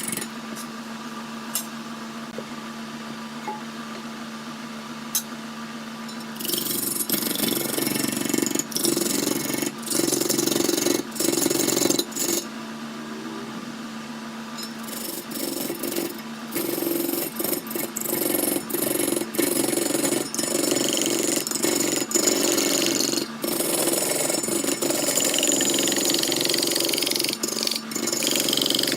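Wood lathe's electric motor humming steadily. From about six seconds in, a tool cuts into the spinning wood in loud stretches of a second or two, breaking off and resuming over and over.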